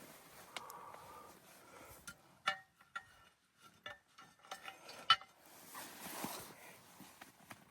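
Several sharp clinks and knocks of hard objects, each with a brief ringing tone, amid quieter handling and rustling.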